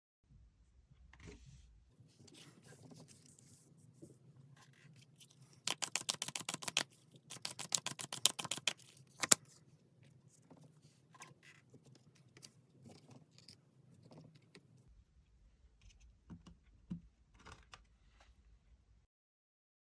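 Tarot cards being handled and shuffled: two quick runs of rapid flicking clicks, each about a second long, then one sharp snap, with softer card rustles and taps around them over a low hum.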